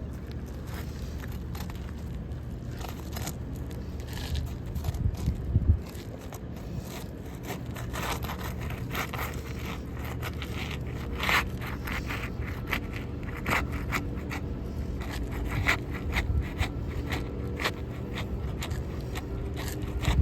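Asphalt architectural shingles being handled on a roof: irregular scraping and crackling with scattered sharp clicks, and a louder knock about six seconds in.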